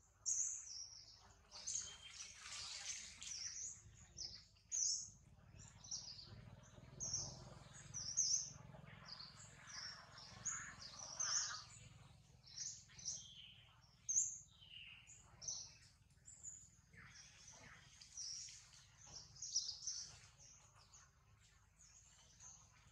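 Small birds chirping with many short, high calls, one after another, over a low steady background rumble.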